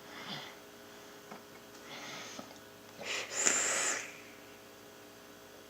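A person exhaling a hit from a vape: soft breaths, then one louder hissing exhale about three seconds in that lasts about a second.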